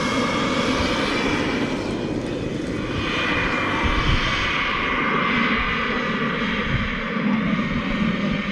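Miniature turbine engine of a radio-controlled model jet running: a steady jet rush with a thin high whine that slowly drops in pitch from about three seconds in.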